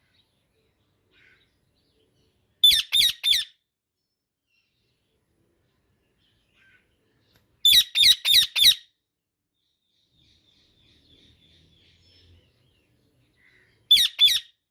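Indian ringneck parakeet calling in three quick bursts of rapidly repeated high-pitched notes, three to five notes each: about three seconds in, around the middle, and near the end.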